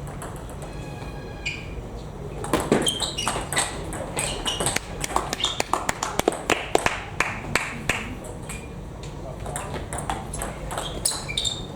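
Table tennis rally: a celluloid-type ball clicking off bats and the table in quick succession, the hits coming thickest from a couple of seconds in until a few seconds before the end, with voices in the background.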